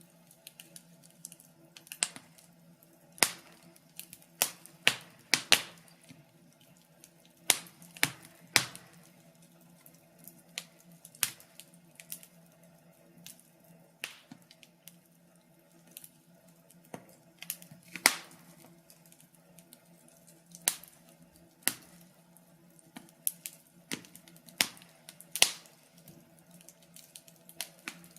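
Fire crackling: irregular sharp pops and snaps, one or two a second with a louder one every couple of seconds, over a faint steady low hum.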